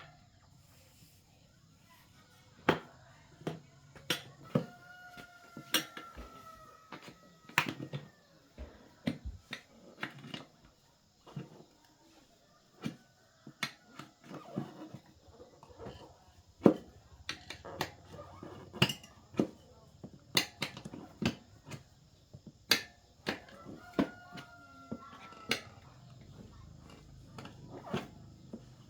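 Irregular sharp knocks and clinks of hand tools against metal parts during mechanical repair work, some louder than others. Twice there is a brief, slightly falling squeak-like tone.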